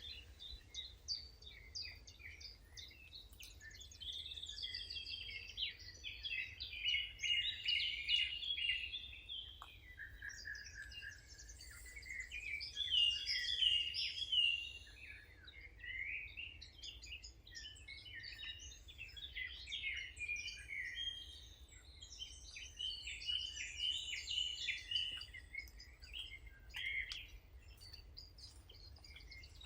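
Several songbirds singing and chirping at once, a dense run of overlapping short phrases and twitters, over a faint steady low rumble.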